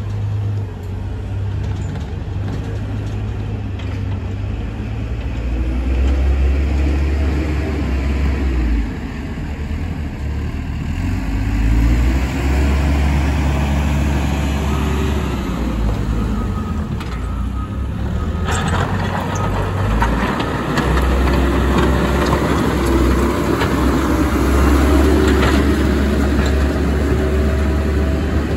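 Caterpillar 120M motor grader's diesel engine running with a steady low drone that shifts as the load changes. About two-thirds of the way through, a louder, noisier sound sets in suddenly and carries on over the engine.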